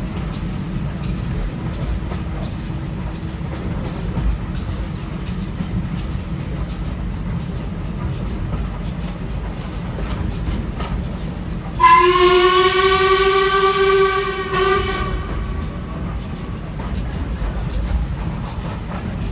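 Steady rumble of a steam-hauled train heard from a carriage window, then about twelve seconds in a steam locomotive whistle blows for about two and a half seconds, followed by a short second toot.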